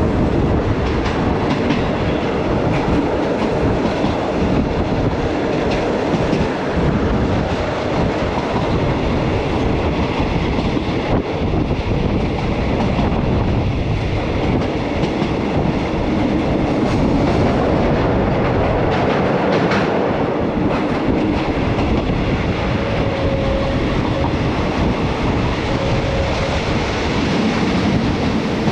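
Passenger train running along the line, heard from on board: a steady rumble with wheels clattering over the rail joints.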